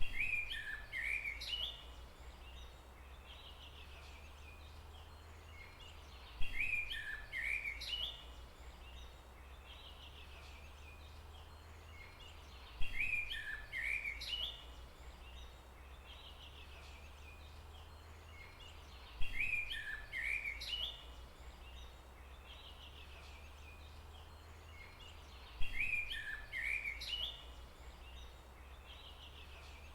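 A bird call, a quick run of chirpy notes about two seconds long with a sharp start, repeats five times at even intervals of about six and a half seconds, identical each time as in a looped recording. A steady low rumble runs underneath.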